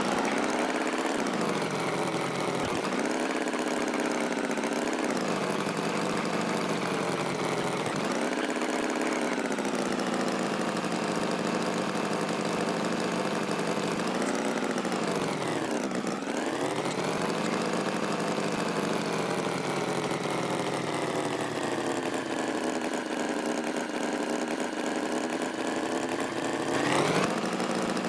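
Tractor engine running, its pitch slowly rising and falling, with a deep dip about halfway through and a rise near the end.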